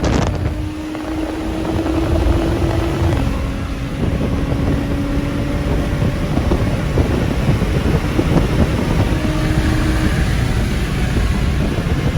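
A car driving at a steady speed. The engine drones on a steady note that steps slightly lower about three seconds in, over a continuous rush of road and wind noise.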